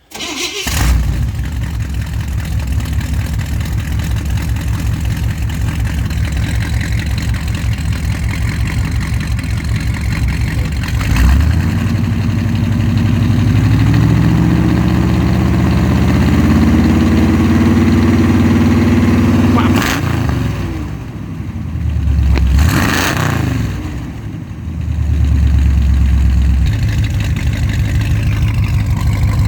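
Corvette engine with Purple Hornies mufflers starting and idling with an even, pulsing beat, then revved: a short blip, a rise held at high revs for several seconds, a quick rev up and down, and back to idle.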